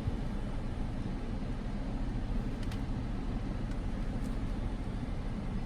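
Steady low rumble of a car idling, with a couple of faint clicks.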